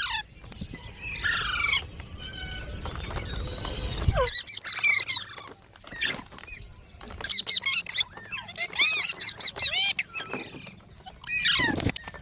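Green parrot giving shrill squawks and chirps in several quick bursts, each made of fast rising-and-falling pitch sweeps. A low rumble sits under the first four seconds and cuts off suddenly.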